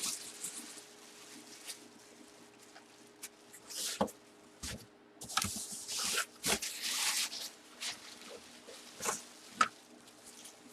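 Packaging being handled: irregular crinkling and rustling of plastic wrap and cardboard, with a few sharp knocks, over a faint steady hum.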